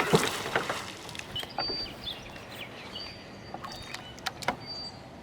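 Magnet-fishing magnet and rope at a pond dock: a short rushing splash right at the start, then scattered light clicks and knocks. A short high note repeats about every second and a half.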